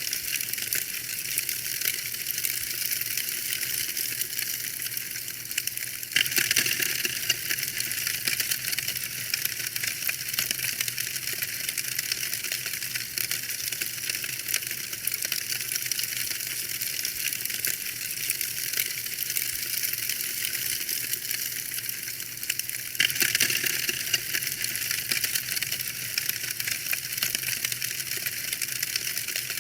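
Wood fire crackling and popping steadily, with bursts of louder, denser crackling about six seconds in and again near the end.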